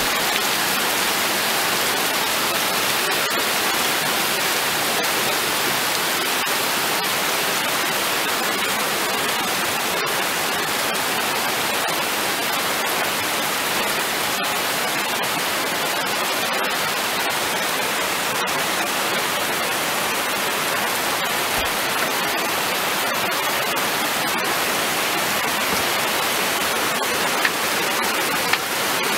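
Steady downpour of rain, an even hiss with no rhythm. Two small clicks come near the end.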